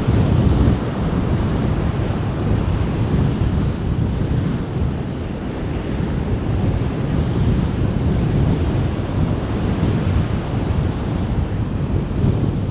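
Strong wind buffeting the microphone in a heavy low rumble, over the steady wash of ocean surf breaking on the beach.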